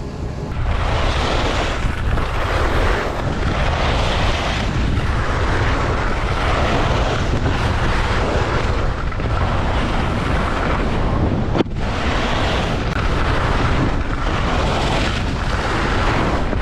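Strong wind buffeting a GoPro's microphone: a heavy, steady low rumble, with rushing swells that rise and fade every second or two. A single sharp click about two-thirds of the way through.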